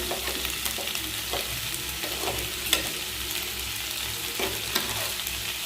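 Chicken masala sizzling in its separated oil in a pan, with a spoon scraping and clicking against the pan or bowl a few times as cashew paste is added and stirred in.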